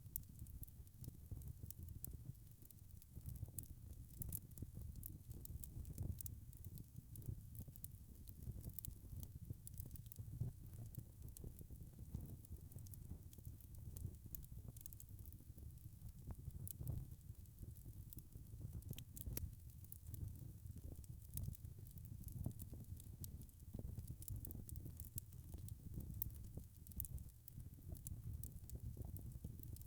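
Log fire crackling: frequent small, irregular pops and snaps over a low, steady rumble of flames.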